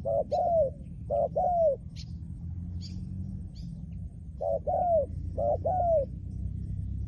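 Spotted dove cooing in short phrases of two or three arched notes. Two phrases come in the first two seconds, then after a pause two more near the end.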